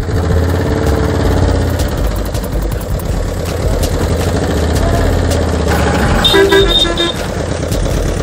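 Truck engine running steadily, with a horn sounding in a short run of quick beeps about six seconds in.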